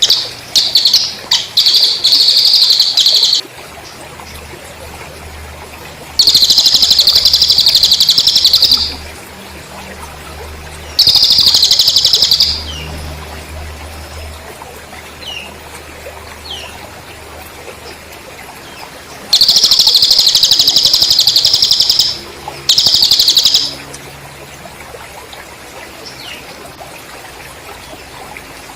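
Recorded cililin bird song: loud, rapid, buzzy trills of one to three seconds each, wavering in pitch, in five bouts with pauses between, over a low steady background hiss.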